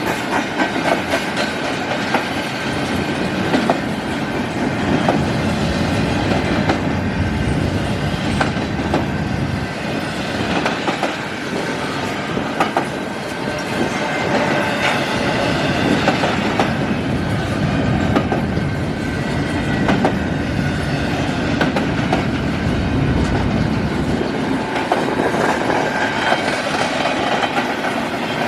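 A long intermodal freight train's cars rolling steadily past, with the wheels clicking over rail joints at irregular intervals and a thin steady wheel squeal above the rumble.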